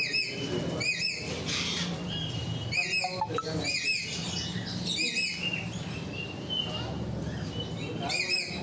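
Ringneck parakeets squawking: short, harsh calls repeated about once a second, a gap of a few seconds, then one more near the end. Fainter chirps from other birds sound behind them.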